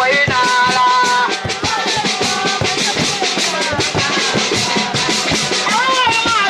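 Sabar drum music: fast, dense drum strokes with a singing voice holding long notes over them, about a second in and again near the end.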